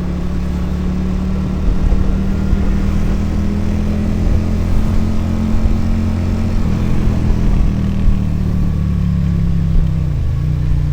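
Motorcycle engine and exhaust running steadily while riding, with the revs dipping briefly near the end.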